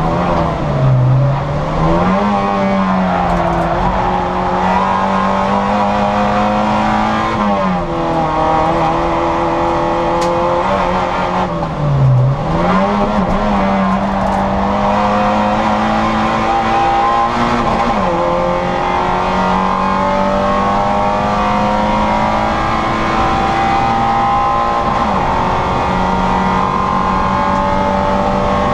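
Citroën Saxo VTR's four-cylinder engine running at high revs on track, held near the top of the rev range. Its pitch drops and climbs back four times, sharpest about a second and about twelve seconds in, as the driver lifts off and shifts for corners.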